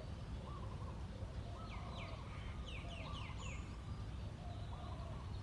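A group of mynas calling: a run of quick falling notes about two to three seconds in, with shorter, lower repeated notes throughout, over a steady low rumble.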